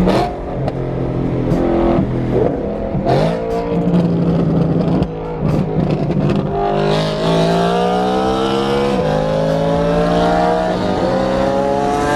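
Performance car engine accelerating hard: after a few short revs, its pitch climbs steadily, drops suddenly at an upshift about nine seconds in, then climbs again.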